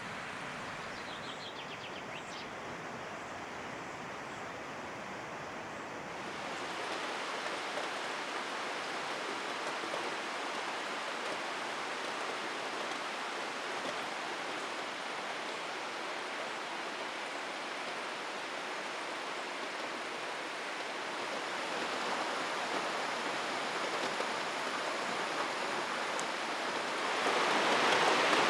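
Steady rain falling, an even hiss of water that grows louder near the end.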